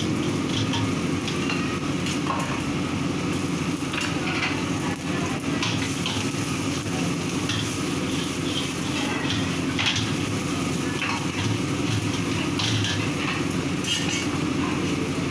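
Sausages deep-frying in a wok of hot oil and meat being stir-fried in a second wok over gas burners: a steady sizzle and burner noise, with scattered clinks and scrapes of metal utensils against the woks.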